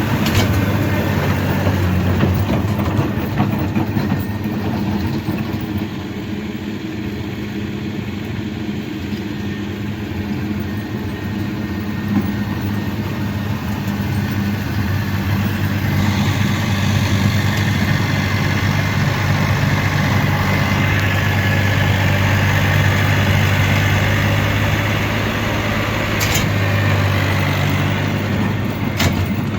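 Snowblower engine running steadily under load while it clears snow.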